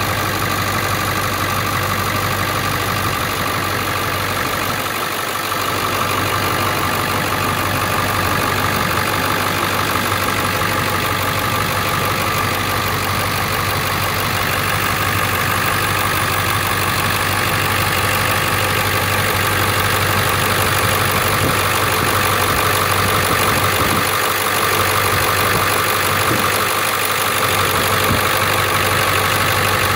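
1999 Ford F-250's 7.3L Power Stroke V8 turbo diesel idling steadily after a cold start.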